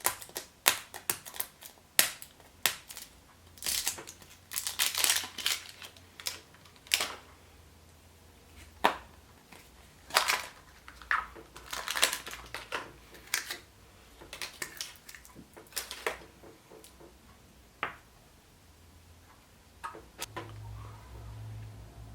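Chupa Chups surprise egg being opened by hand: irregular sharp clicks of the plastic egg halves and packaging, with brief bursts of wrapper crinkling, thinning out near the end.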